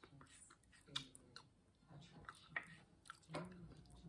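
Quiet eating sounds: soft chewing with a few light clicks of a wooden spoon against a glass plate.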